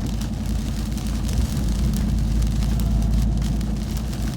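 Steady low rumble of a Ram 1500 TRX pickup heard from inside the cab while driving: its supercharged V8 and the tyres on a wet road. Scattered light ticks of rain hit the truck.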